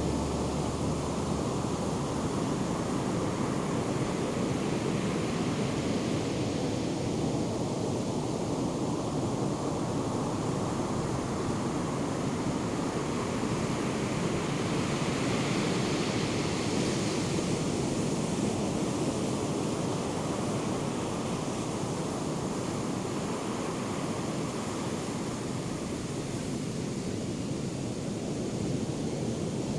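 Ocean surf from a hurricane swell breaking and washing ashore, a steady rush of noise that brightens a little around the middle.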